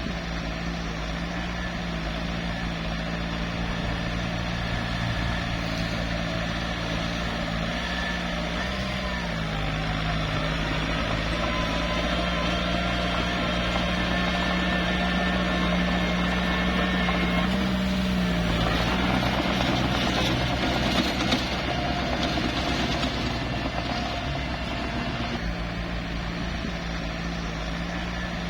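Small bulldozer's diesel engine running steadily under work. Its pitch shifts a little about nine seconds in and drops about eighteen seconds in, followed by a rougher, noisier stretch lasting several seconds before the steady engine note returns.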